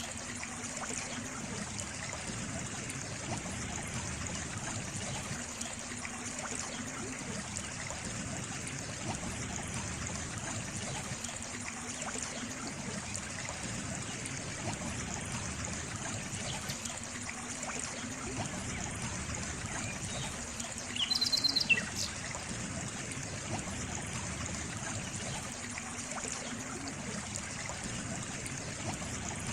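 Steady trickling of a flowing stream. About two-thirds of the way through, a brief high-pitched sound, the loudest moment, stands out over the water for about a second.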